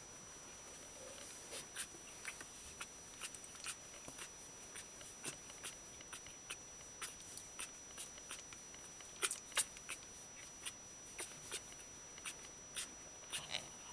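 Small irregular clicks and ticks from week-old Shiba Inu puppies, about one or two a second, with two sharper clicks about two-thirds of the way through.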